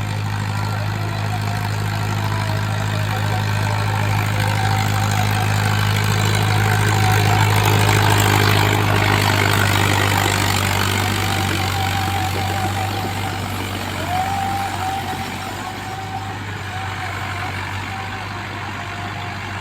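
Tractor diesel engine running steadily, growing louder toward the middle and then easing off.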